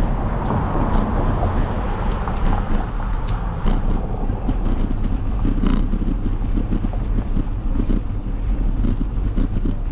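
Wind buffeting the microphone with steady road rumble while riding, with a few faint clicks and rattles.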